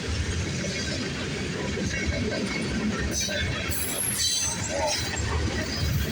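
Freight train rolling past a grade crossing: a steady rumble of wheels and cars, with brief high-pitched screeches about three and four seconds in.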